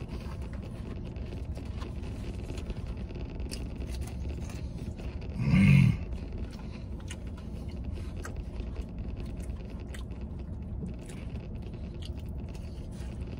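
Close chewing and mouth sounds of a man eating sauce-covered animal-style fries, with many small wet clicks. Just past halfway comes one short, loud hum through closed lips.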